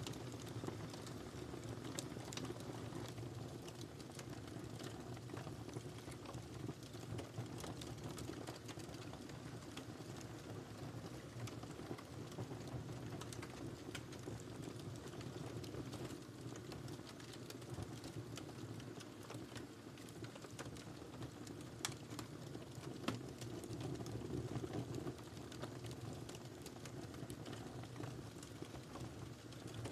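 Wood fire crackling in a fireplace: a steady low rush of burning with frequent small pops and snaps throughout. Two sharper pops come about two-thirds of the way in.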